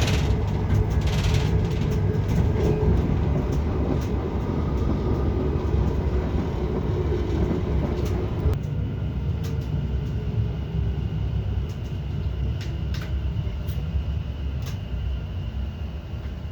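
Inside a passenger train: the steady low rumble of the train running, with a hum that drops away about halfway through and a few light clicks.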